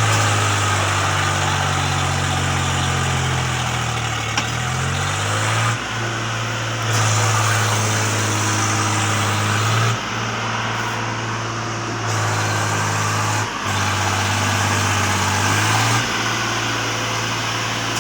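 Swaraj 735 FE tractor's three-cylinder diesel engine running steadily. Its pitch dips and comes back up a few seconds in, and the sound shifts abruptly several times.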